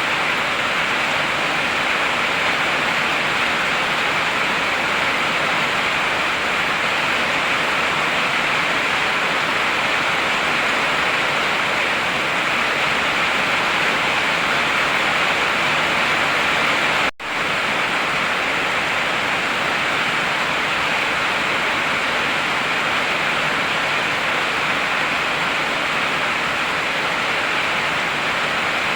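Heavy rain falling steadily, a dense unbroken hiss, which drops out for an instant about two-thirds of the way through.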